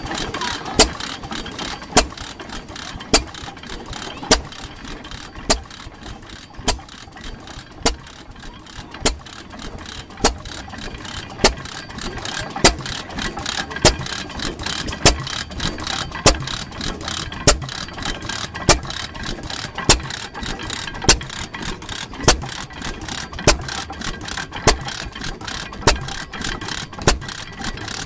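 1913 6 hp Fairbanks vertical hoist engine running, with a loud sharp beat about every 1.2 seconds over fast, steady clicking of its moving parts.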